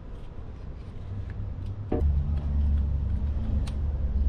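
A low, steady engine rumble sets in suddenly about two seconds in and holds, with a few light clicks of small metal parts being handled.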